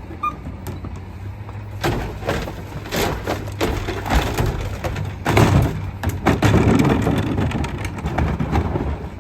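Garbage truck compacting a load of trash: repeated cracking and crunching as the material is crushed, loudest about halfway through, over the steady running of the truck's diesel engine.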